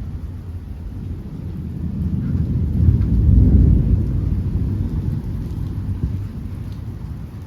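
Thunder rolling, a deep rumble that swells about two seconds in, peaks near the middle and slowly dies away, over steady rain.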